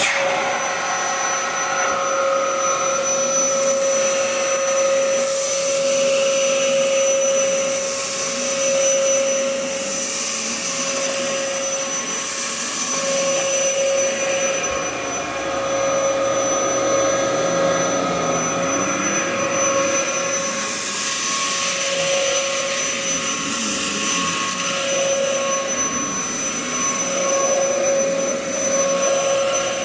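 Dyson DC07 upright vacuum cleaner running steadily, a constant motor whine over a rush of air that swells and eases every several seconds.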